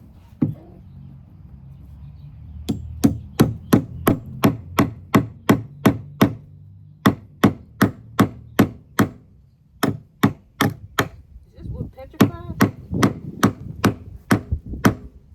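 Hammer driving a nail into hard wood: runs of quick strikes, about three a second, broken by short pauses. The nail is struggling to go through the hard wood.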